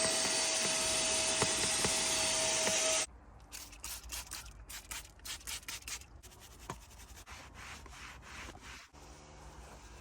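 A car-detailing tool's motor runs with a steady whine and hiss for about three seconds, then cuts off sharply. A run of short rubbing strokes follows as the surface is worked by hand.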